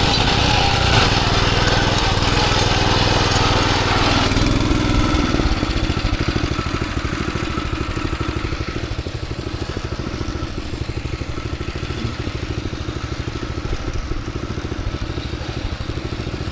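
Farm machine engine running, louder and fuller for about the first five seconds, then dropping to a quieter, steady, evenly pulsing run.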